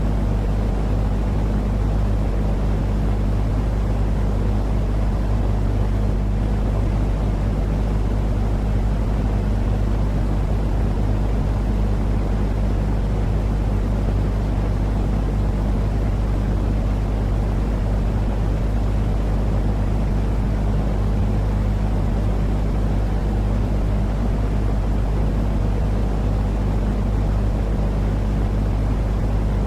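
A steady, unchanging sleep-aid noise, heaviest in the low end, with a constant low hum running through it.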